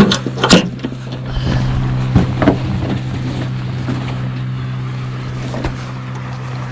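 Boat outboard motor idling steadily with a low, even hum. A few sharp knocks come near the start and again around two seconds in.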